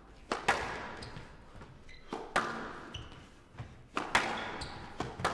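Squash rally: sharp knocks of the ball off rackets and court walls every second or two, each with a short echo in the enclosed court.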